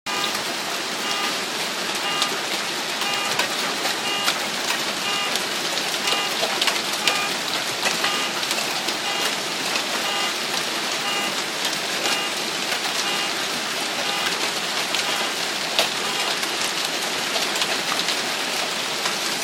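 Hail and heavy rain pelting down, a dense steady hiss full of sharp ticks from hailstones striking hard surfaces. A short electronic beep repeats about once a second throughout.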